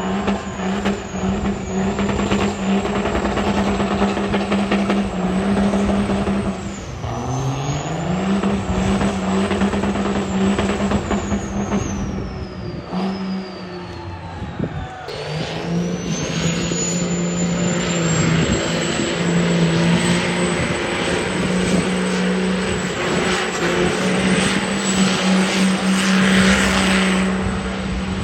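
Turbo diesel truck engine running hard at high, steady revs, with a thin high whistle over it. The revs dip briefly about seven seconds in and recover; the whistle falls away and then climbs back up about halfway through.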